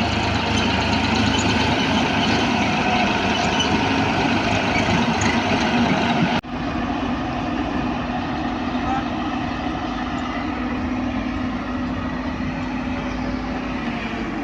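Heavy diesel machinery running steadily, with a low, even engine hum. The sound changes abruptly about six seconds in.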